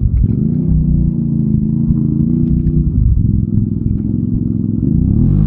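ATV engine revving under load in mud. The revs rise and hold, drop off about three seconds in, then climb again near the end.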